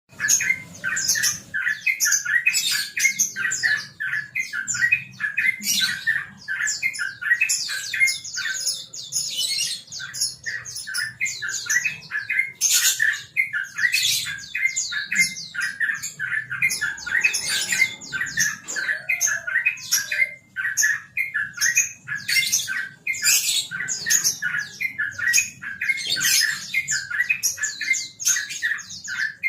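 Yellow-vented bulbul singing non-stop: a rapid string of short, bubbly notes repeated several times a second with hardly a pause.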